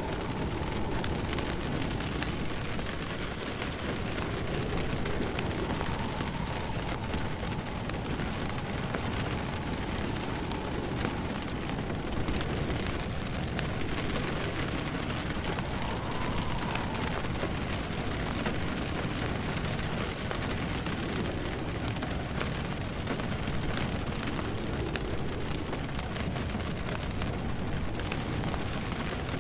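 Steady rain pattering together with a wood fire crackling in a fireplace, a continuous even wash of noise dotted with small pops.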